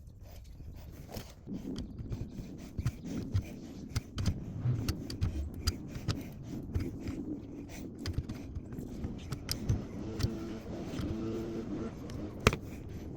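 Irregular scraping and clinking of metal tools and fittings being worked on a hose bib, with many small clicks and a sharp click near the end.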